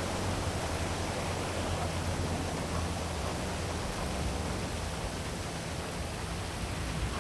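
Heavy rain falling in a steady hiss, with a low rumble of city traffic underneath.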